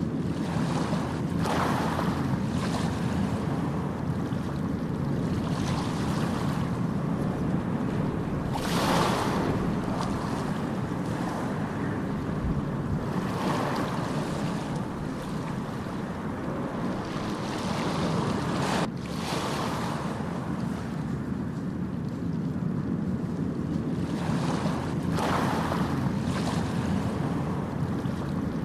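Ocean surf: a constant low rumble of waves, with a rushing swish of breaking water every few seconds and one sharper crash about two-thirds of the way through.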